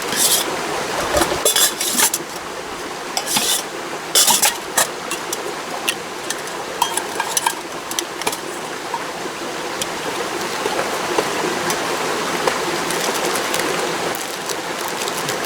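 Metal camp gear clinking and clattering, with a flurry of knocks in the first few seconds and scattered ones after, over the steady rush of a mountain stream.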